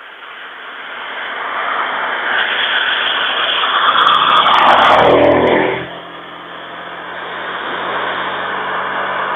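A road vehicle passes close by. Its tyre and engine noise builds for about four seconds, and the engine pitch drops steeply as it goes past around five seconds in, then the noise falls away. A second vehicle's noise builds again near the end.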